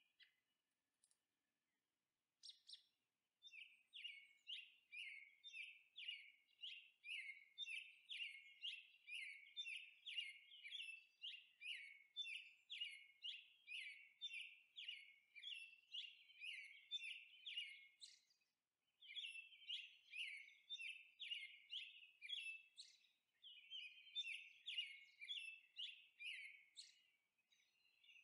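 Faint bird chirping, a quick repeated note about twice a second, each note sliding down in pitch, with a couple of short pauses.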